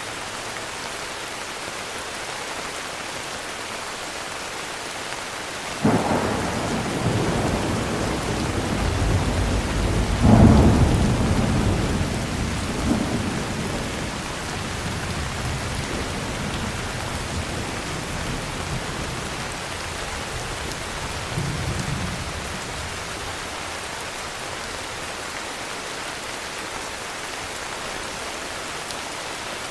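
Steady heavy rain with a thunderclap: a sudden crack about six seconds in, a louder peak a few seconds later, then a low rumble that fades away, with a smaller rumble near two-thirds of the way through.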